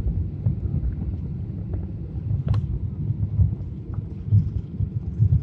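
Airliner cabin noise on approach: a steady low rumble of engines and airflow heard inside the cabin, with a sharp click about two and a half seconds in.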